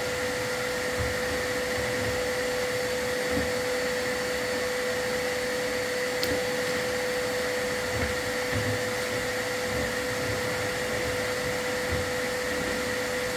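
Chimney sweep's dust-collection vacuum running steadily with a constant whine, with faint low knocks now and then.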